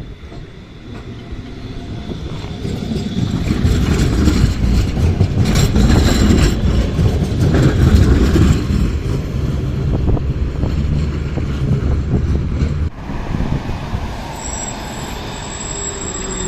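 A Pesa metre-gauge tram running on its track: a heavy rumble and clatter that builds over the first few seconds and stays loud. The narrator finds this tram badly maintained and says it does not run well. About thirteen seconds in, the sound changes abruptly to a quieter rail-vehicle sound with a faint falling whine.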